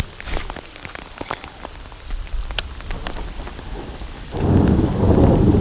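Heavy rain pattering, with scattered sharp drop ticks. About four seconds in, a loud low rumble sets in and holds.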